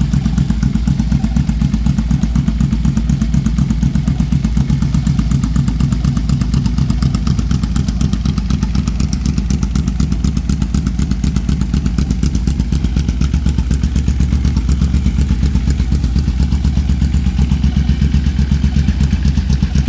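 1985 Yamaha VMax V4 engine idling steadily on its first run after a carburettor rebuild, firing on only one cylinder because of a bad CDI.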